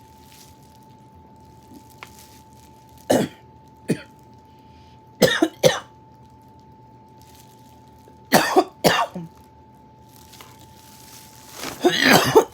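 A woman coughing in short fits, one or two coughs at a time every few seconds, with a longer fit near the end: the coughing of someone who has just taken a bite of food that is too spicy.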